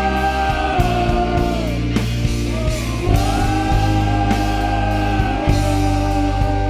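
Live worship band playing a rock-style song, with a singer holding long drawn-out notes twice over guitar, bass and drums.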